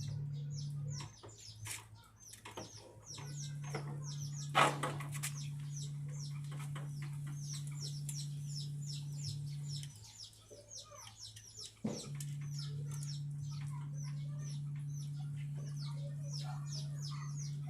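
Birds chirping with many short, high, repeated calls, over a steady low hum that cuts out twice and comes back. A sharp knock sounds about four and a half seconds in, and a click near twelve seconds.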